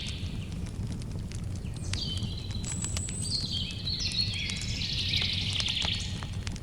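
Campfire crackling with frequent sharp pops over a low steady rumble, while birds sing in chirping phrases, one about two seconds in and a longer one from about three and a half to six seconds in.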